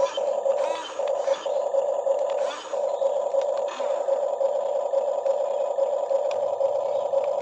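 Electric motor of a Huina radio-controlled excavator whining at a steady pitch, with a few light clicks and scrapes over it.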